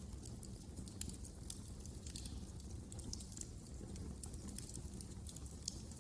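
Wood fire crackling, with frequent irregular small pops and snaps over a steady low rumble.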